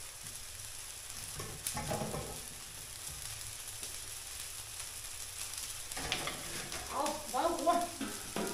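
Food frying in hot oil in a wok, a steady sizzle, with a click about two seconds in and a voice heard briefly twice.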